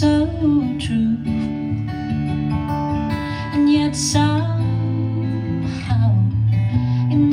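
A song performed live: acoustic guitar strummed and picked under a woman's singing voice.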